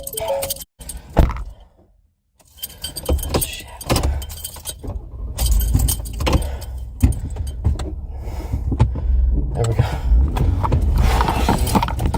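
Jangling, rattling metal clatter with repeated knocks over a low rumble.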